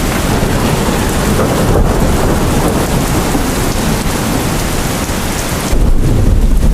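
Heavy rain falling steadily in a dense hiss, with a deep rumble of thunder swelling in near the end.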